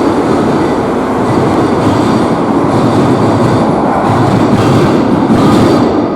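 Madrid Metro train running through the station: a loud, steady rumble of wheels on rail that swells near the end and then starts to fall away.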